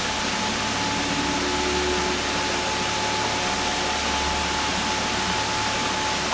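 Waterfall: water falling steadily into the pool, a continuous even rush with no change.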